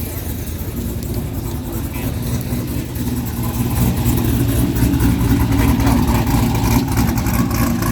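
Car engine running, getting louder about three and a half seconds in and staying up.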